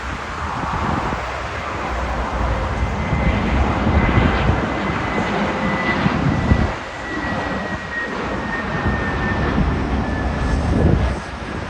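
Airbus A321neo jet with Pratt & Whitney geared turbofan engines flying in to land, its engine noise steady with a faint whine that slowly falls in pitch as it passes. Wind rumbles on the microphone.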